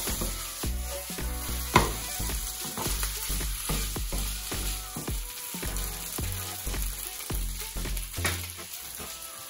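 Stir-fry of chicken, broccoli and udon noodles sizzling in a nonstick frying pan while a wooden spatula stirs and scrapes it, with one sharp knock of the spatula against the pan a couple of seconds in. Background music plays under it.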